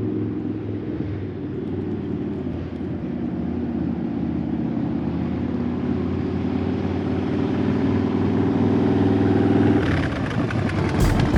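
Harley-Davidson Dyna's V-twin engine running with the bike under way, its note edging up in pitch and loudness in the second half.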